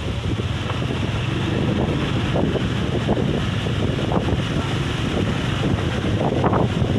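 Strong gusting wind blowing straight onto the microphone, a loud low rumble that swells and dips with each gust.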